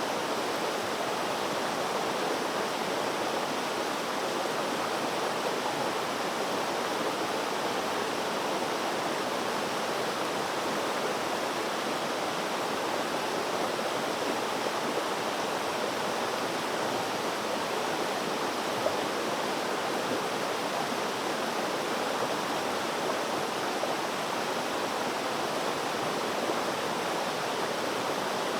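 Flowing water rushing steadily, an even stream-like wash of noise with no change in level.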